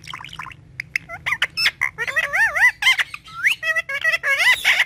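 Green ringneck parrot chattering in quick calls that sweep up and down in pitch, with a few sharp clicks about a second in; the calls grow busier and louder through the second half.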